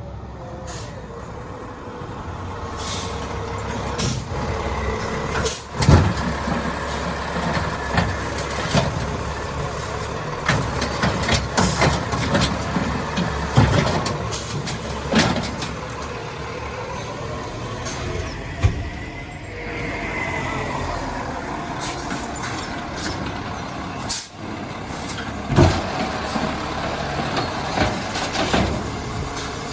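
Crane Carrier LET2 garbage truck with an Amrep automated side-loader body at work: the truck's engine and machinery run steadily, with sharp bangs and knocks every few seconds, the loudest about six seconds in.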